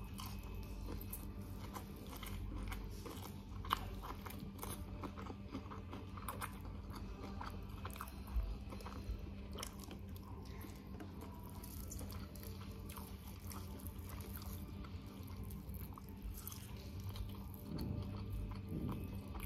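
Close-up chewing and biting of crunchy food, with irregular crackles and clicks from the mouth. A steady low hum runs underneath.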